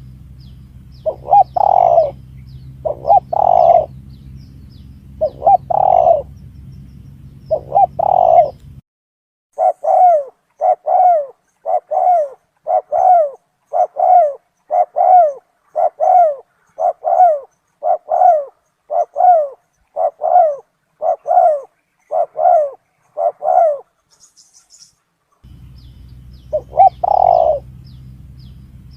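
Spotted dove cooing as a recorded lure call, phrase after phrase of low coos. The first part sits over a steady low hum. From about nine seconds in comes a quicker, even run of about one coo a second with no hum, and the hum and the slower phrases return near the end.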